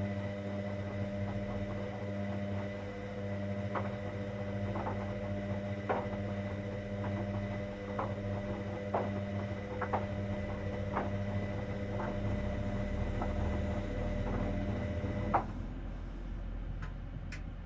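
Hoover Dynamic Next washing machine running mid-cycle on its cotton 60 programme: a steady electrical hum with light clicks about once a second. The hum cuts off suddenly near the end, followed by two short clicks.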